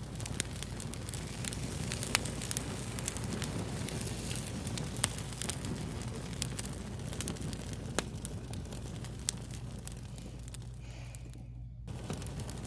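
Wood fire crackling: a dense run of sharp pops and snaps over a steady low rumble. The crackle drops out for a moment near the end, then resumes.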